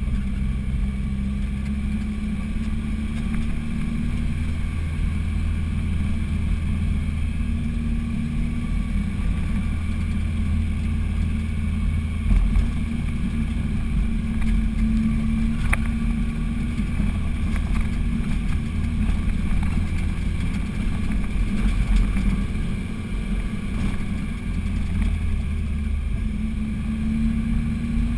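Car engine running steadily under load as the vehicle climbs a mountain road, heard from inside the cabin as a constant low drone. One sharp click about halfway through.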